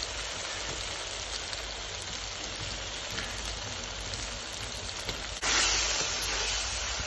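Fish pieces and masala sizzling in a hot iron karahi, a steady frying hiss. About five and a half seconds in it gets suddenly louder and brighter.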